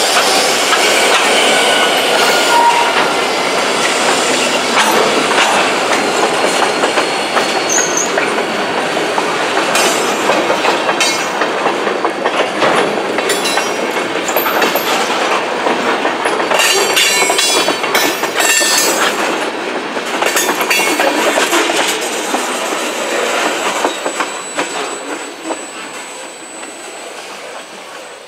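Freight train of tank cars rolling slowly past: steel wheels clacking over the rail joints and squealing, with a run of sharp clicks in the middle. The sound fades near the end as the tail of the train moves away.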